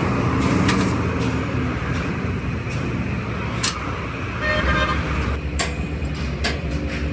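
Steady road-traffic noise with a short horn toot about four and a half seconds in. Several sharp knocks come in the second half.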